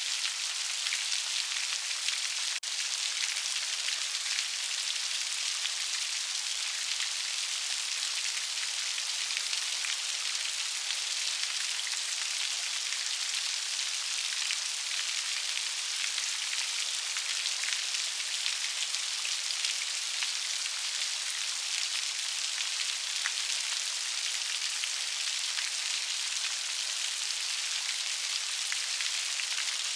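Steady rain falling, an even hiss of many small drops pattering without a break.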